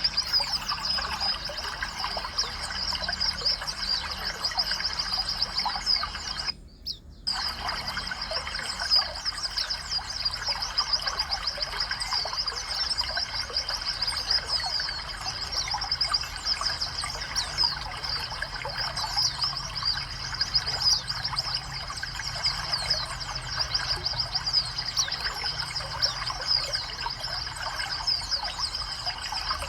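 Many small songbirds chirping and twittering at once, a dense overlapping chorus of short high calls, broken by a brief dropout about seven seconds in.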